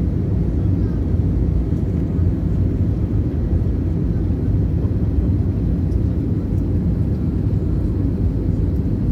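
Steady low rumble of an airliner's cabin noise: engines and airflow heard from inside the passenger cabin, even throughout.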